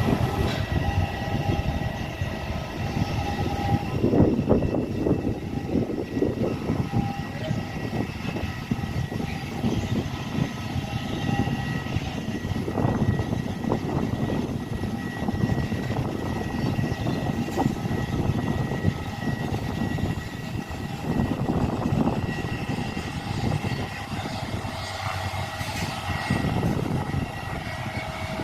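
Cessna 208 Caravan's single PT6A turboprop engine and propeller running at takeoff power: a steady, loud rumble with several high, steady tones above it.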